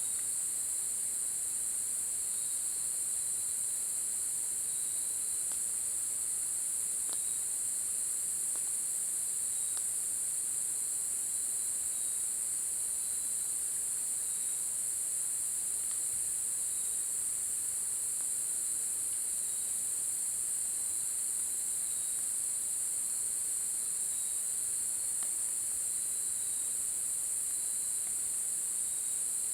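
Steady, high-pitched chorus of crickets, with a second, fainter insect trilling in a slow repeating pulse underneath. A few faint ticks come through now and then.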